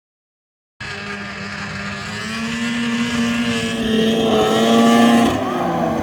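A vehicle engine running at high revs cuts in abruptly about a second in. Its pitch climbs slowly, then drops about five seconds in.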